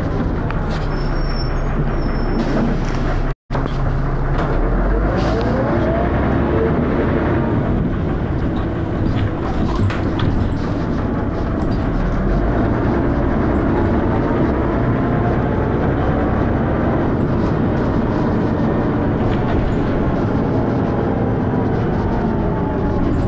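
Dennis Arrow bus engine running hard with a loud, steady thrash, its pitch climbing at times as the bus pulls away. The sound cuts out completely for an instant a few seconds in.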